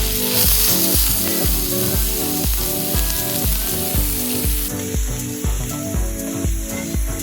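Food sizzling in a hot iron frying pan, the hiss dropping away about four and a half seconds in, over background music with a steady bass beat.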